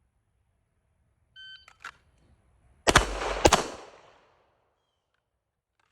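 A shot-timer start beep, then two quick shots from a Canik Rival S 9mm pistol about 0.6 s apart, ringing off the range. It is a timed two-shot drill, about 2.1 s from the beep to the second shot.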